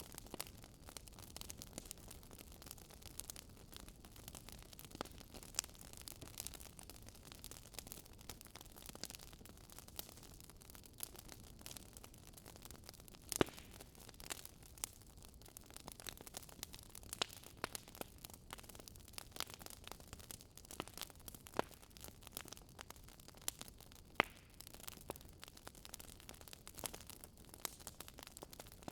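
Wood fire in a fireplace crackling: irregular sharp pops and snaps over a low steady hiss, with a couple of louder pops.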